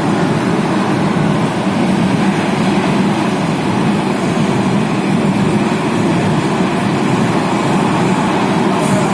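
Athens metro train running between stations, heard from inside the car: a steady rumble and rush of wheels on rail.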